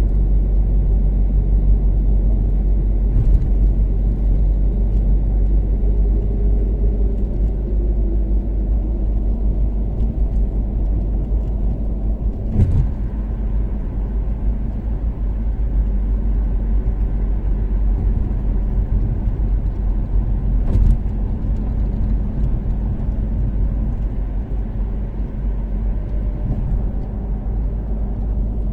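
Toyota Caldina's turbocharged 3S-GTE inline-four running at a steady cruise, with constant road and tyre rumble. Two short sharp knocks cut through it, one about halfway through and another about 21 s in.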